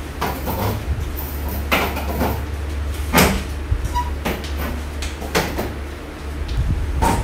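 Dining chairs being moved and set down on a tiled floor: a string of separate knocks and scrapes, the loudest about three seconds in, over a steady low hum.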